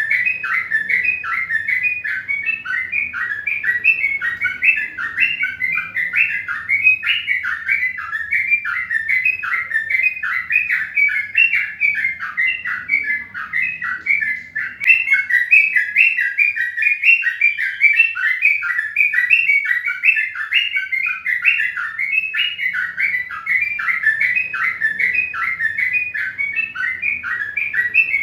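Small birds chirping rapidly and without pause, several short chirps a second, all at much the same pitch.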